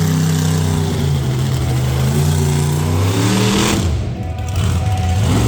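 Monster truck engine running hard at high revs, cutting off sharply about four seconds in and picking up again about a second later.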